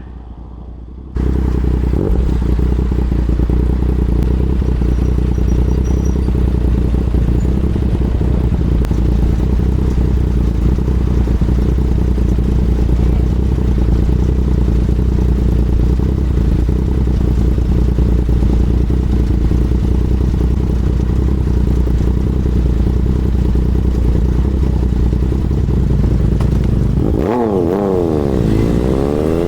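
Motorcycle engine running at a steady speed while riding, a constant drone that cuts in sharply about a second in. Near the end the engine note rises and falls as the revs change.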